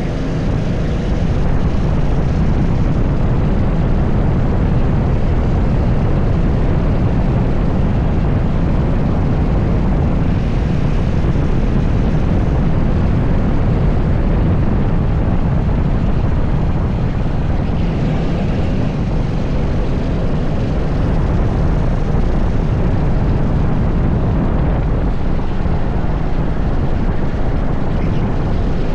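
80cc TS5 go-kart engine running continuously as the kart laps the track, a loud, steady drone with little change in level.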